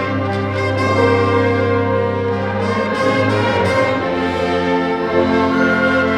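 A chamber wind ensemble playing sustained chords over a held bass note, with short accented notes near the start and around the middle and a change of chord about two-thirds of the way through.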